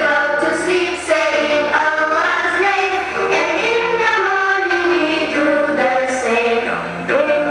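Voices singing a nasheed together, a continuous melody without breaks.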